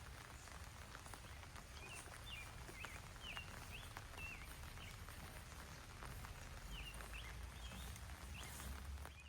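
Small birds chirping outdoors in a series of short, quick chirps, over a faint low rumble.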